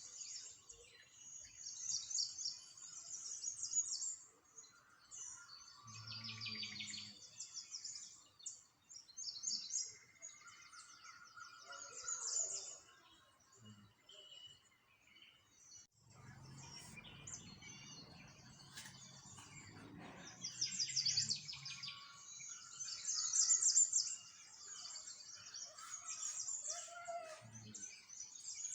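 Small songbirds chirping and twittering in quick, high trills, several overlapping at once, with a faint low rumble underneath for a few seconds about a third of the way in and again past the middle.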